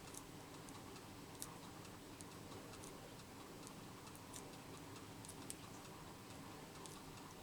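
Faint light ticks, a little under one a second and not quite evenly spaced, over a low steady room hum.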